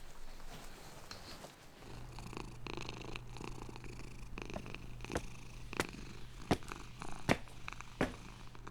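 Low, steady purring that starts about two seconds in, with about five sharp clicks over it in the second half.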